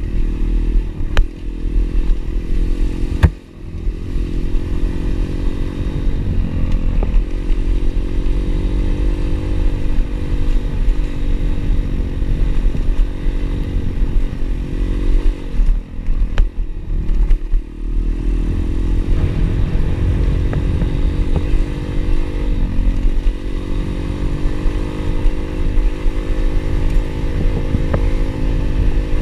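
Pit bike engine running under way, its pitch rising and falling with the throttle and climbing steadily over the last several seconds. A few sharp knocks come near the start.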